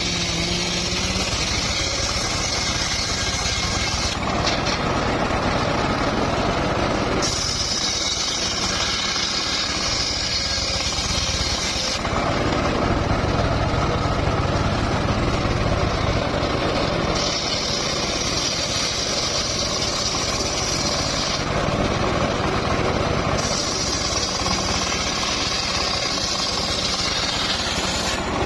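Engine-driven power saw running continuously while sawing mahogany, with a bright high hiss that comes and goes every few seconds.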